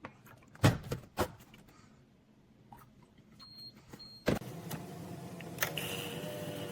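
A few sharp clicks, a short high electronic beep, then a click and a small electric motor in the Ninja DualBrew coffee maker starts up and runs with a steady whirring hum and whine.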